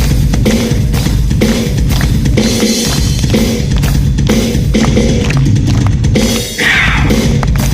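Drum kit played hard and fast, with bass drum and snare strokes packed close together in a drum solo. There is a short break just before six and a half seconds in.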